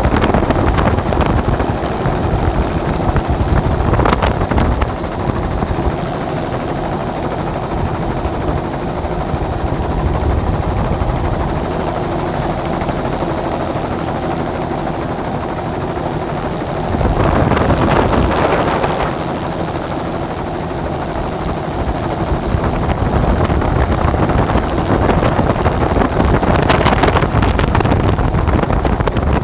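Steady rotor noise of the aircraft filming from the air, with a constant high whine over it. Louder gusts of wind noise swell a few seconds in, just past halfway and near the end.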